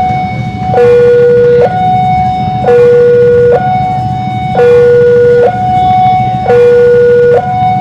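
Railway level-crossing warning alarm sounding a repeating high-low two-tone signal, each tone held just under a second and the higher tone louder, warning that a train is approaching. A steady low rumble runs beneath it.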